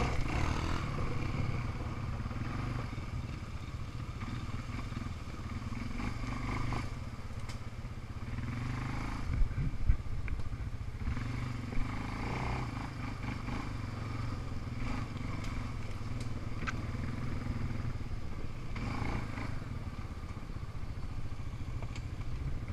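Single-cylinder ATV or dirt bike engine running steadily at low speed, with a few sharp knocks about ten and twelve seconds in.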